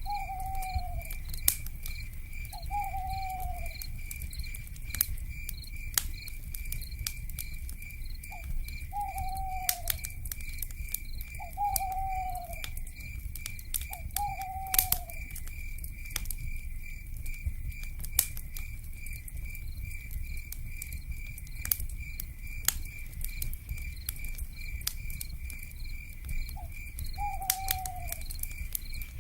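Wood fire crackling with frequent sharp pops over a low rumble, with a steady pulsing high insect trill throughout. An owl gives a short falling whistled call six times, the first right at the start and the last near the end.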